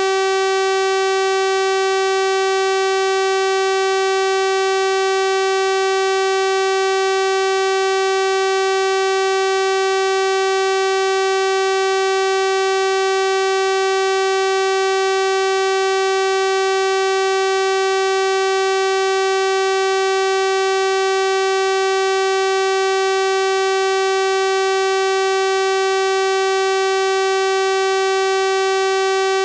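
A steady electronic 384 Hz sawtooth-wave tone, held at one pitch and one level without a break, with a bright buzzy sound from its many harmonics.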